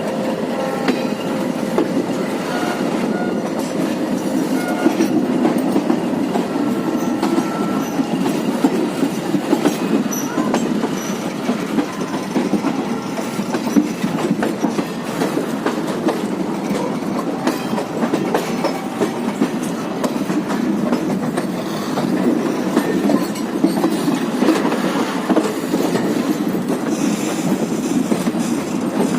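Indian Railways express passenger train running along the track, heard from aboard: a steady rumble of wheels on the rails, dense with small rapid clicks.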